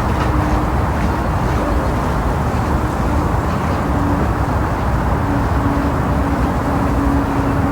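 Steady low rumble of outdoor city noise, with a faint hum that comes and goes.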